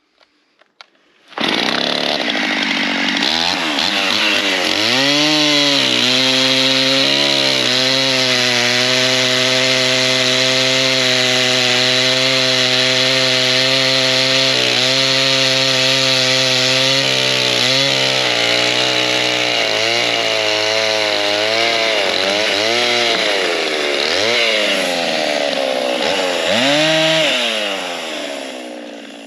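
Chainsaw starting up about a second and a half in and revving up and down. It then holds a steady high speed for about ten seconds and revs several more times before dropping off near the end.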